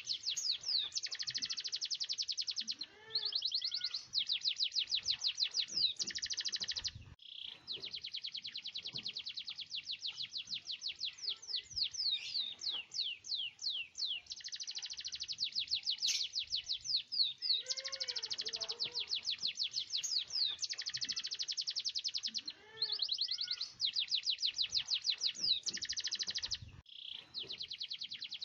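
Domestic canary singing long rolling trills of rapid repeated high notes, each roll running a few seconds with short breaks between, and a run of slower sweeping notes in the middle.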